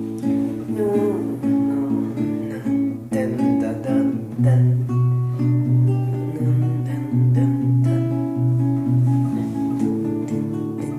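Acoustic guitar music, plucked and strummed, with a run of strong low bass notes from about four to nine seconds in.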